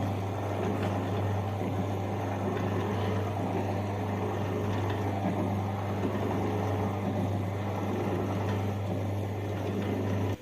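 A machine running with a steady low hum. It cuts off suddenly at the end.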